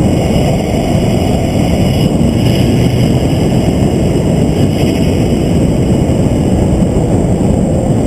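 Vehicle running at speed on a racetrack: a steady, loud roar of engine and rushing air.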